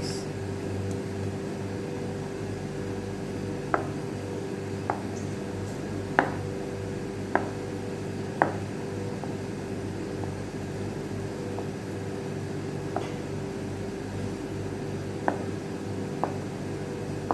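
Knife knocking on a cutting board about eight times, irregularly spaced a second or more apart, while cutting firm tofu into cubes. Under it a steady machine hum.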